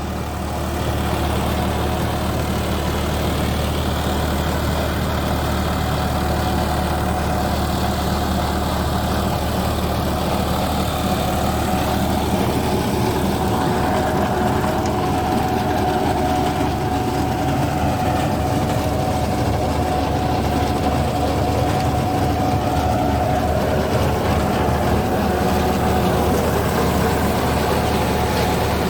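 John Deere 5310 tractor's 55 hp three-cylinder diesel engine running steadily under load while driving a 10-foot rotavator seed drill, a little louder after the first second.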